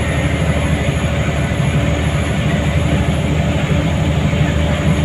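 Scania L94UA city bus's diesel engine running steadily under way, mixed with road and tyre noise, heard from inside the passenger cabin.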